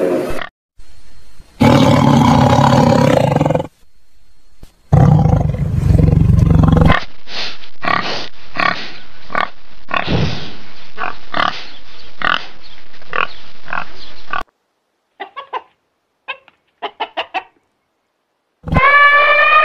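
Animal calls edited one after another: two loud, rough calls, then a run of about a dozen short calls repeated evenly, then a few faint quick clicks, and a pitched call beginning near the end.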